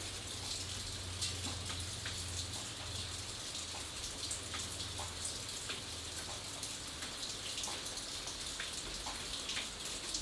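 Steady rain with individual drops ticking sharply and irregularly on a hard surface over a constant hiss, and a faint low hum beneath it for the first few seconds.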